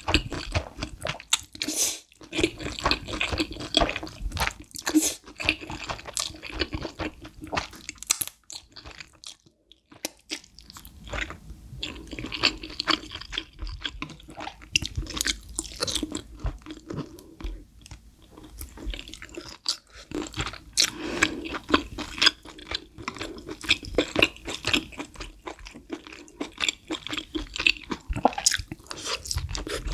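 A person eating close to the microphone: slurping and chewing spicy stir-fried instant noodles, with wet, sticky mouth sounds and quick clicks from chewing. There is a short pause about nine seconds in.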